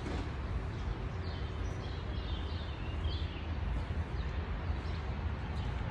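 Small birds chirping, a string of short quick chirps between about one and three and a half seconds in, over a steady low outdoor rumble.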